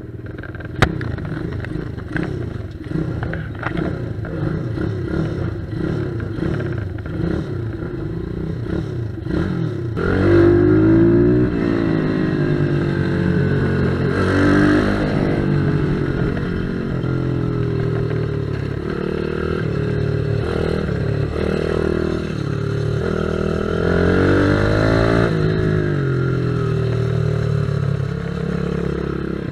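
Pit bike engines running and revving, the pitch rising and falling as the throttle opens and closes, louder from about ten seconds in. A sharp click about a second in.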